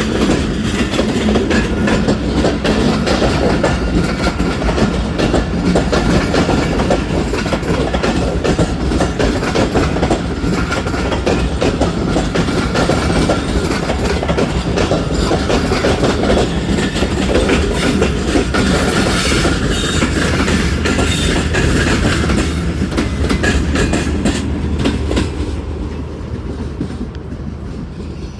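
Train coaches passing at close range, their wheels clattering over the rail joints in a fast, steady run over a low rumble. The sound fades as the end of the train goes by, near the end.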